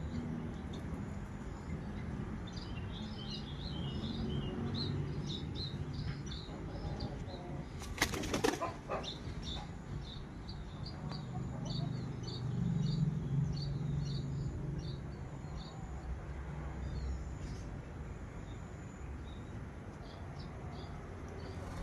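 Domestic pigeons' wings flapping as the birds are released and take off, with a quick loud flurry of wing claps about eight seconds in. Small high chirps of birds are heard throughout.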